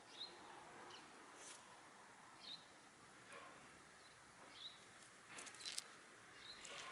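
Faint crunching of a Shiba Inu chewing chicken wing tips, a few single crunches and then a quick run of them near the end. A small bird chirps briefly about every two seconds in the background.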